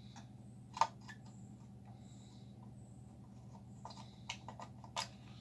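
Small clicks and taps of handling on an amplifier circuit board as a blown fuse is worked loose, the sharpest click about a second in and a run of quicker clicks near the end, over a low steady hum.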